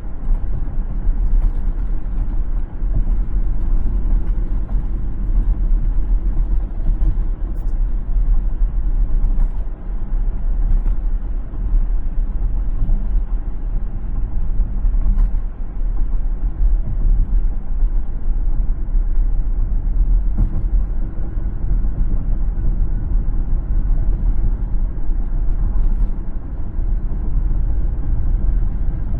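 Car driving on a road: a steady low rumble of engine and tyres, with a few faint ticks.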